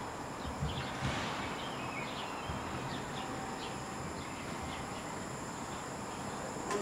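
Small birds chirping again and again over steady outdoor background noise, with a few soft low thumps early on and a sharp click near the end.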